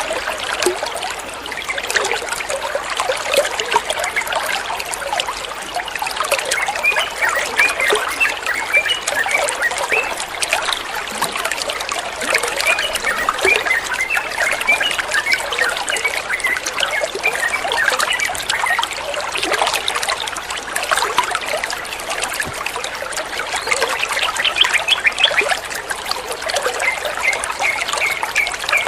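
Flowing water trickling and gurgling steadily, with many small splashes.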